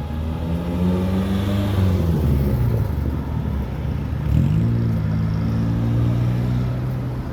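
A car engine running under throttle as the car pulls away. Its pitch holds, sags a little after about two seconds, then climbs quickly about four seconds in and holds steady.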